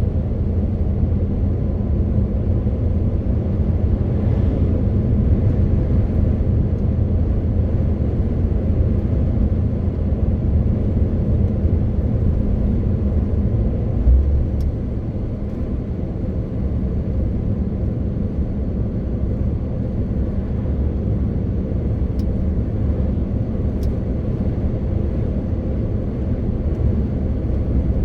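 MAN TGX 18.520 truck's big inline-six diesel engine and tyres making a steady low drone on the move. A brief thump comes about halfway through, after which it runs a little quieter.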